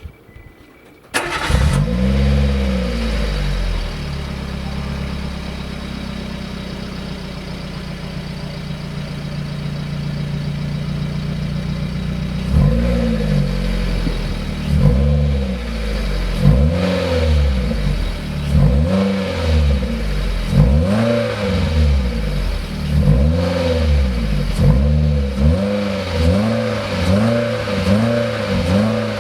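Subaru R1's 658 cc four-cylinder engine, breathing through a STYLE-BAY FIGHTER002 aftermarket muffler, fully warmed up. It starts about a second in with a short rev, idles steadily, then from about halfway is blipped again and again, each rev rising and falling back, the blips coming quicker towards the end. The muffler is quiet enough that mostly the engine itself is heard.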